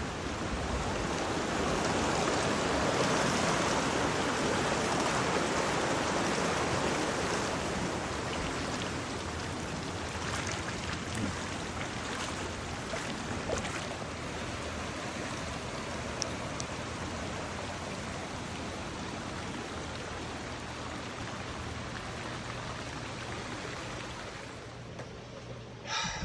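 Rushing floodwater: a steady wash of moving water, loudest a few seconds in and easing slightly toward the end.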